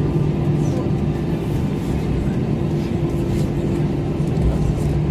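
Airbus A321 cabin noise while taxiing in after landing: a steady low rumble with a constant hum from the engines and cabin systems.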